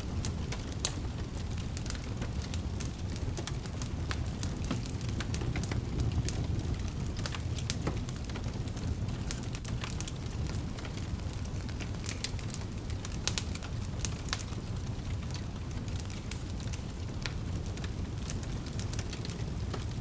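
Wood fire burning in a fireplace: a steady low rumble of flames with frequent sharp pops and crackles scattered irregularly throughout.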